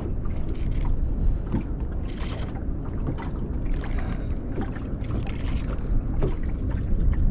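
Steady low rumble of wind on the microphone and water around a small fishing boat, with a few faint clicks and knocks.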